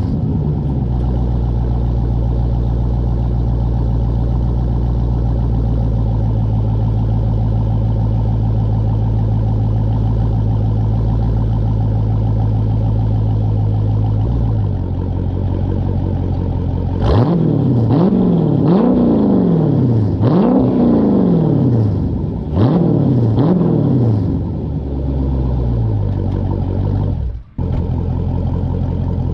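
Dodge Charger Scat Pack's 392 HEMI V8 through a straight-through MBRP 3-inch race catback exhaust with no mufflers or resonators. It idles steadily, the idle settling a little lower after about fourteen seconds. From about seventeen seconds in it gives a run of quick throttle revs, each rising and falling in pitch, then drops back to idle.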